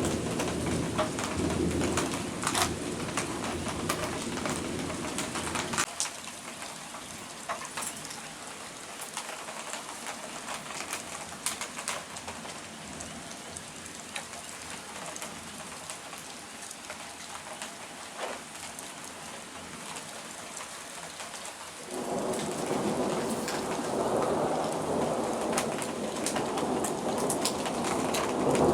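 Steady rain with many sharp drops pattering on a nearby surface. Low thunder rumbles under it at the start and again from about three-quarters through.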